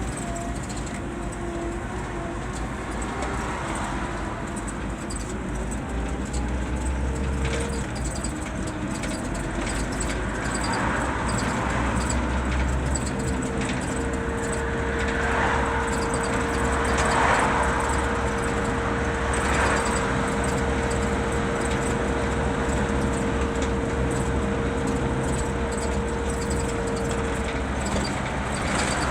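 Scania K 320 city bus under way: its diesel engine running steadily with road and tyre noise. A steady whine comes in a little under halfway through and holds for about a quarter of a minute before fading, and there are a few short swells of noise in the middle.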